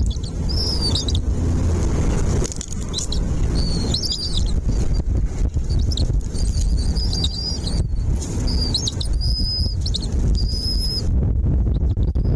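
Small birds chirping: short high calls repeated every second or so over a steady low rumble.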